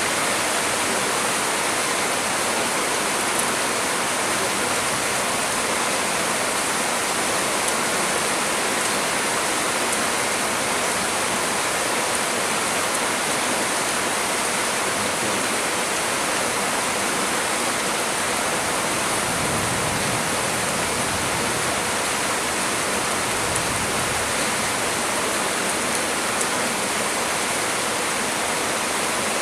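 Heavy storm rain falling steadily, a continuous even hiss. A deeper rush swells briefly about two-thirds of the way through.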